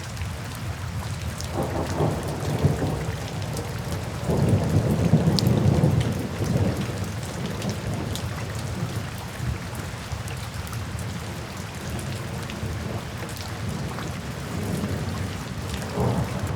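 Steady rain falling with scattered drop ticks, under low rolling thunder that swells twice, loudest a few seconds in, and rumbles again near the end.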